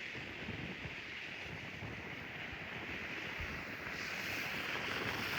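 Strong wind rushing and buffeting the microphone, growing louder and hissier near the end.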